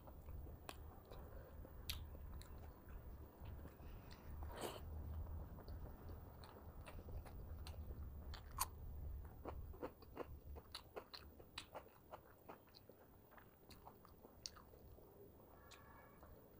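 Close-miked chewing of a mouthful of rice and fish curry eaten by hand, with many short wet mouth clicks and smacks and a few crunches, over a faint low hum.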